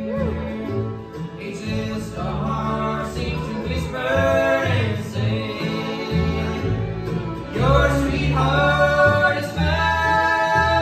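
Bluegrass band playing live, with voices singing over the instruments and a moving bass line.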